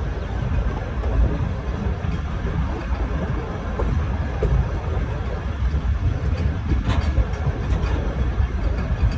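Steady rumble of a moving passenger train, its wheels running on the rails, with a sharp click about seven seconds in.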